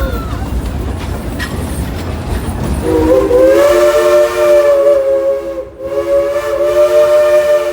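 Steam locomotive's chime whistle blowing a chord of several notes: a long blast about three seconds in, a short break, then a second long blast, over the rumble of the train running.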